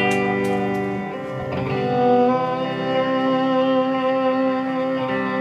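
Live band playing the instrumental close of a song: guitar-led held chords ringing, with chord changes about a second in, about two seconds in and near the end.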